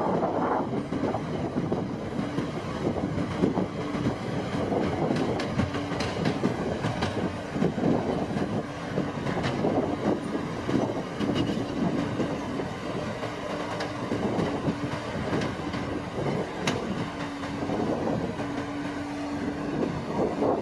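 Farm machine for harvesting rice running steadily, a continuous mechanical rumble and clatter with a hum that drops in and out several times.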